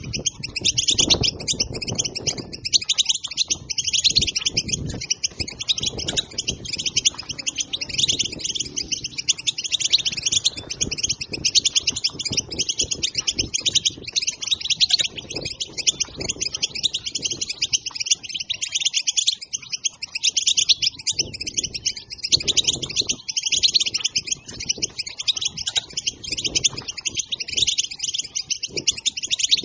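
European goldfinch twittering: a dense, continuous stream of rapid high chirps and trills, the excited chatter that keepers play to stimulate goldfinches to sing.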